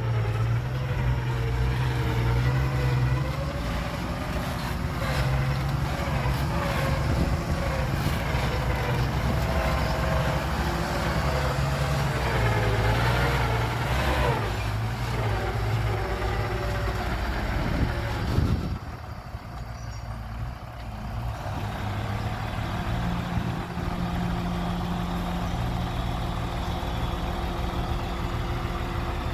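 Heavy diesel engine of construction machinery working, its pitch rising and falling with load. About two-thirds of the way through it drops off sharply and runs on steadier and a little quieter.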